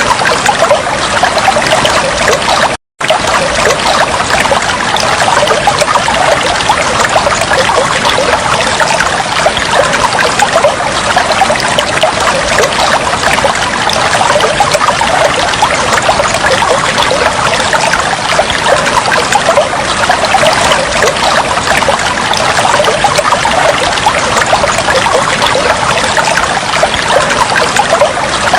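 Flowing water running steadily and evenly, cutting out to complete silence for a fraction of a second about three seconds in.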